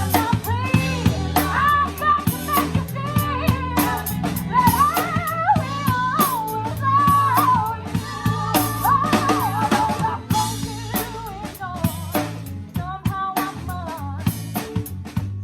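Live band music with a drum kit playing a steady beat of kick, snare and cymbal hits under a wavering melodic lead line.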